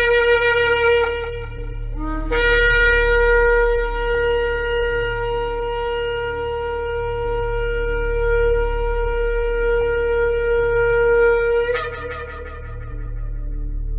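Shofar blasts. A blast ends about two seconds in, then after a brief note a long, steady blast is held for about nine seconds; it breaks upward in pitch at the end and dies away. A steady low hum runs underneath.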